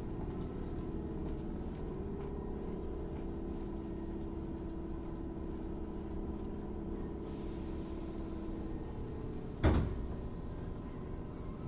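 Inside a Tobu 8000 series electric train car, a steady low rumble with a steady hum, broken by one sharp bang about ten seconds in.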